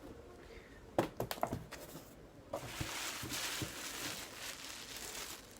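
Unboxing packaging being handled: a few quick knocks about a second in, then steady rustling of packaging for a couple of seconds.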